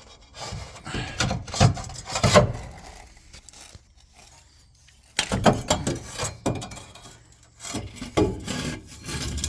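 A section of exhaust front pipe being wrestled out from under a truck: irregular scraping, rubbing and knocking of pipe against metal. It comes in two spells with a quieter pause of about two seconds in the middle.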